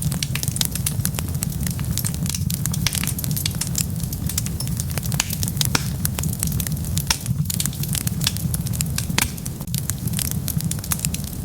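Wood fire crackling with many quick, sharp pops over a steady low rumble of the flames.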